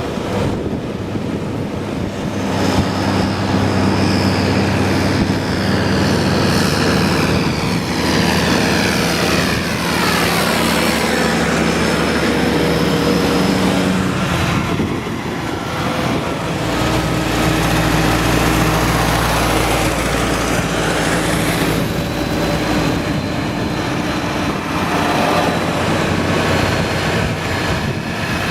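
Farm tractor engines running in a steady drone, with the engine tones shifting partway through and a sweeping change in pitch in the middle.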